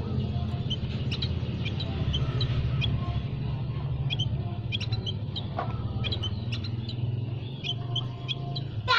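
Small aviary birds, munias among them, giving many short high chirps and tweets, overlapping and irregular, over a steady low hum.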